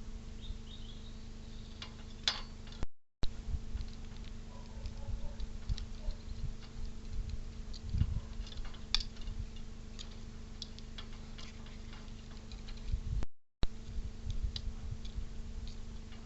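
Irregular light clicks and taps over a steady electrical hum. The sound cuts out completely twice, about three seconds in and near the end.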